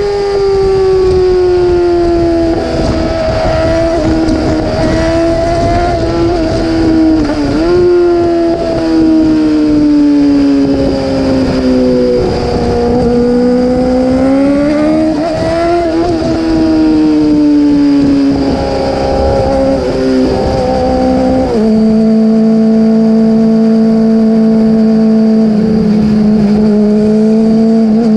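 Yamaha R6 sport bike's inline-four engine running high in the revs, its pitch rising and falling with the throttle. About three-quarters of the way through the pitch drops sharply, then holds steady.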